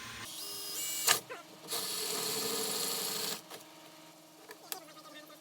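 Power drill fitted with a hole saw and pilot bit spinning up with a rising whine, then cutting into the Jeep Wrangler door for about a second and a half before stopping abruptly.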